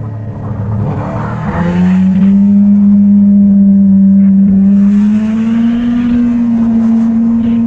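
Motorcycle engine running under way. Its note steps up about a second and a half in as it accelerates, then holds and creeps slowly higher.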